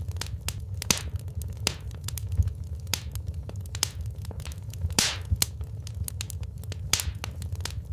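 Wood fire crackling in a fireplace: irregular sharp pops and snaps over a steady low rumble, with a longer, louder hissing pop about five seconds in.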